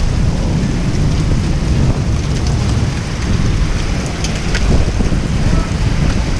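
Heavy rain pouring down, a steady loud wash with a deep low rumble under it and scattered sharp drop hits.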